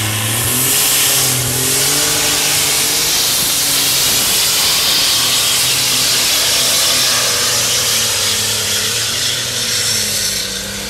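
Case IH pulling tractor's diesel engine at full power, dragging the weight sled down the track in a full pull. The engine revs up about half a second in and holds at high revs with a wavering pitch, then sags near the end.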